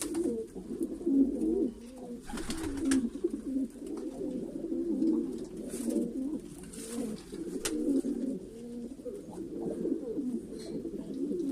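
Domestic pigeons, a Karbalai pair, cooing continuously in low warbling tones, with a few short rustling noises over them.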